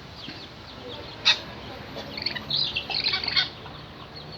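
Caged birds chirping in short high bursts: one sharp call about a second in, then a quick run of chirps in the middle, from two birds squabbling in play.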